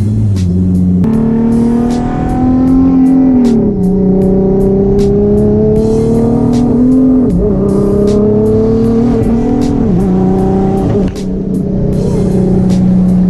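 Turbocharged 3.7-litre V6 of a 370Z Nismo pulling hard. Its pitch climbs and then drops sharply several times as the revs rise and fall. Background music with a steady beat plays over it.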